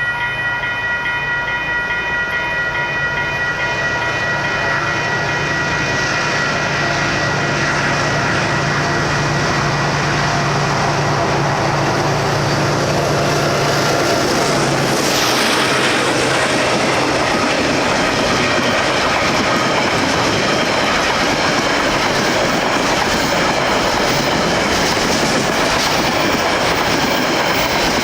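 DX-class diesel-electric locomotive hauling a train. Its engine hum and a steady high whine are heard for the first half; about halfway the whine fades under steady wheel-on-rail noise with clickety-clack over the rail joints.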